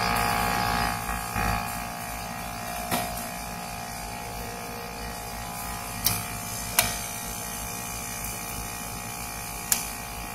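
Rooftop air-conditioning unit running with a steady electric hum, broken by four sharp clicks.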